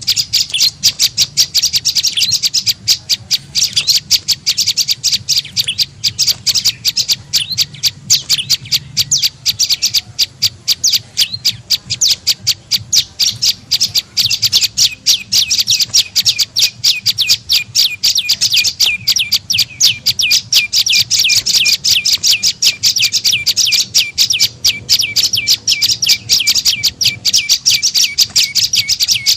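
Prenjak lumut calling in a fast, unbroken chatter of short, sharp, high notes, several a second: a lure call used to draw wild prenjak in.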